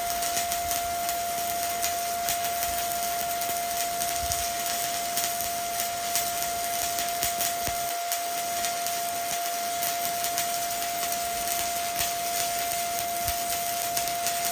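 Stick welding arc (SMAW) burning a 1/8-inch E7018 rod at 120 amps: a steady frying crackle full of small sharp pops as the bead is run. A steady high tone runs underneath.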